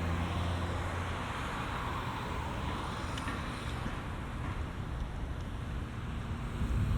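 Road traffic passing along a highway bridge: steady tyre and engine noise. A low engine hum fades in the first second, and the noise swells again near the end as another vehicle comes by.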